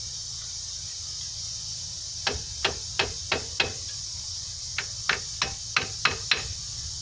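Sharp metal taps, about eleven in two quick runs of roughly three a second starting about two seconds in: a hammer knocking the brake caliper's retaining clip into place.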